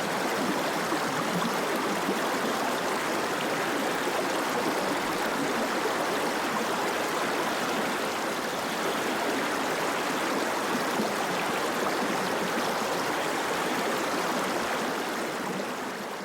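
Steady rush of fast-flowing water from a stream or waterfall, fading out near the end.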